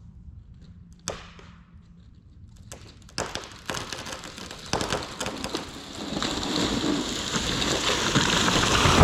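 Leaves and branches rustling and crackling, starting about three seconds in and building steadily louder to the end, after a single sharp snap about a second in.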